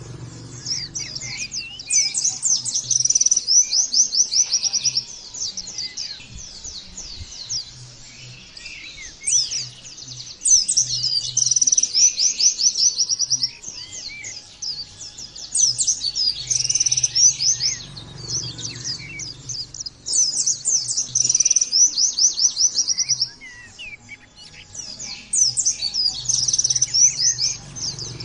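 Pleci (white-eye) singing: repeated bursts of fast, high-pitched trilled notes, each phrase lasting a few seconds with short pauses between.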